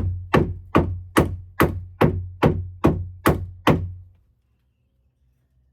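Hammer blows on a wooden roost perch, struck in a fast even rhythm of about two and a half blows a second, stopping about four seconds in.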